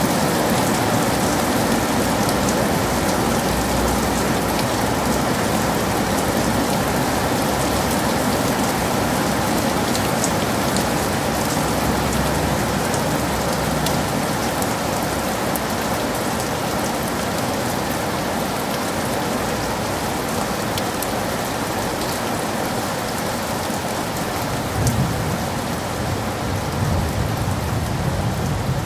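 Heavy rain falling steadily, with scattered close drop hits, and a low rumble of thunder coming in near the end.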